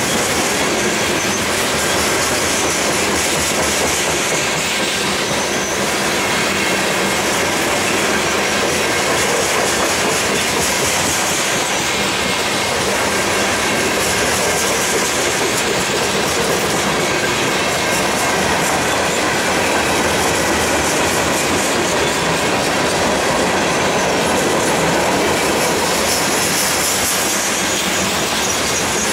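Freight train cars, covered hoppers and boxcars, rolling steadily past at close range: a continuous rumble of steel wheels on rail with the clickety-clack of wheels over rail joints and some wheel squeal.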